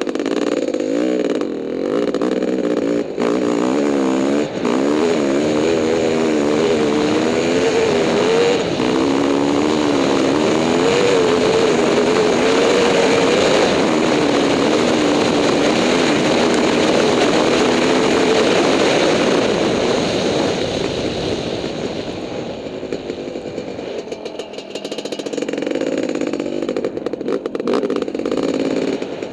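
Honda CR500 dirt bike's single-cylinder two-stroke engine under way, its revs rising and falling constantly for about twenty seconds, then easing off and picking up again near the end.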